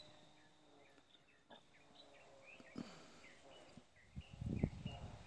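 Small birds calling outdoors, many short repeated chirps overlapping one another. A brief low rumble on the microphone comes about four seconds in.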